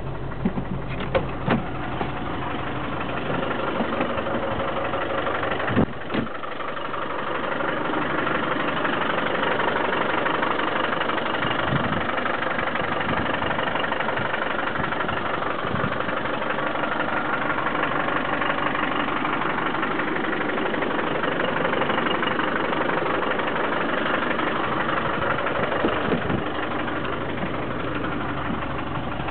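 1997 Land Rover Defender 110's engine running steadily at idle, with a few sharp knocks in the first several seconds.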